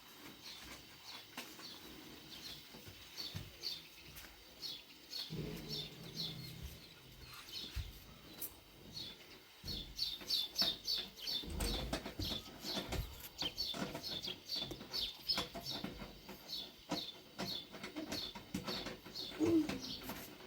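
Small birds chirping in quick, repeated short notes, busier in the second half, with a few low knocks and clicks mixed in.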